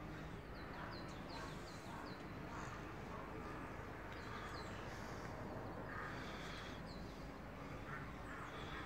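Birds chirping faintly, a series of short, high chirps in the first few seconds and a few more near the end, over a steady outdoor background hiss.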